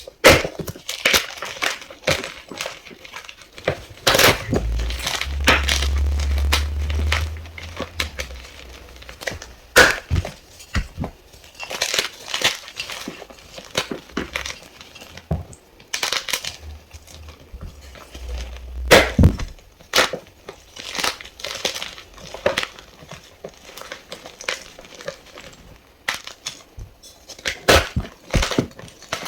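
A fresh block of White Gold gym chalk being crushed by hand, with many irregular crisp crunches and crumbles. Twice a low rumble runs under the crunching for a few seconds, about 5 and 17 seconds in.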